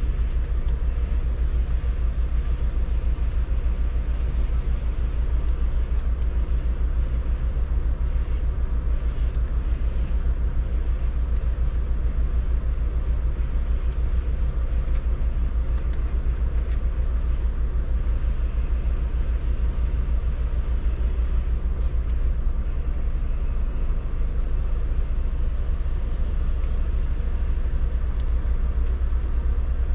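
Steady low rumble of a car, with a fainter even hiss above it and a few faint ticks.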